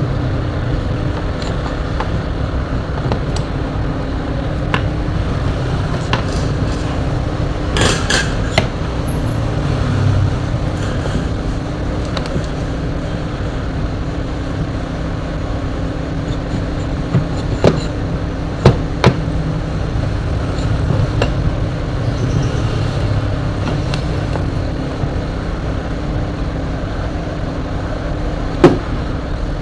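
Occasional sharp knocks and clicks from a fan motor's metal parts being handled while its jammed bushing is oiled and cleaned. A steady low background rumble runs under them.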